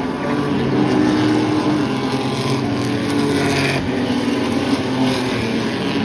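Race trucks' engines running at speed on the track, several engines heard together, loudest about a second in.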